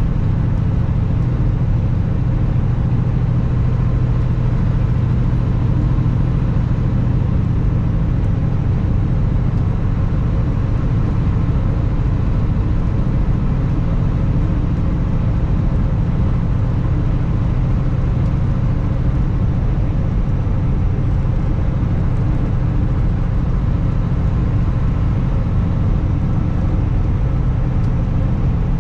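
2021 Kenworth W900 semi truck's diesel engine running steadily under way, with road and wind noise.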